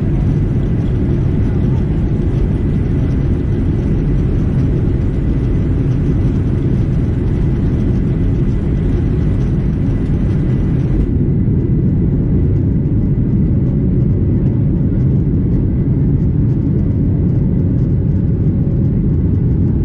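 Boeing 737-800 jet engines at takeoff power: a loud, steady rumble during the takeoff run and climb.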